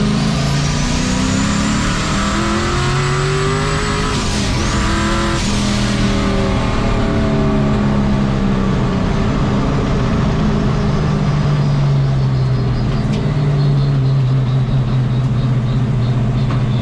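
Turbocharged engine of a 1951 Chevy race truck pulling hard with a high whine rising alongside it. About four seconds in the revs drop briefly for a gear change and climb again, then the engine pitch slowly falls and holds steady.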